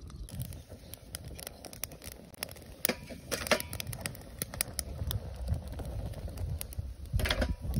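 Bamboo bonfire burning, with irregular sharp crackles and pops over a low rumble of flame; the pops come thickest about three seconds in and again near the end.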